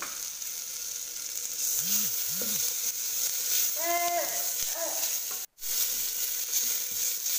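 Onions and ginger-garlic paste frying in hot oil in a pressure cooker, a steady sizzle with a ladle stirring them. The sound cuts out for a moment about two-thirds of the way through.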